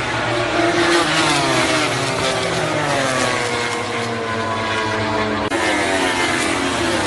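MotoGP racing motorcycles running at speed past the listener, their engine note falling in pitch as they go by. The sound changes abruptly about five and a half seconds in, with another engine note taking over.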